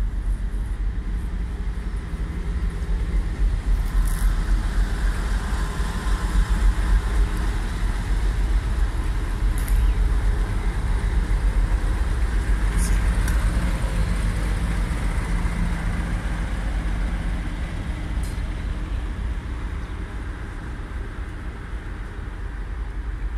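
Passing train running by at close range, building to a loud rumble and then slowly fading as it moves away.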